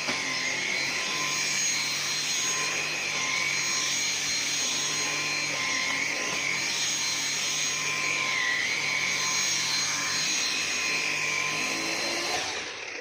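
Numatic James tub vacuum cleaner running steadily, with a wavering whine in its note. Near the end it is switched off and the motor begins to wind down with a falling whine.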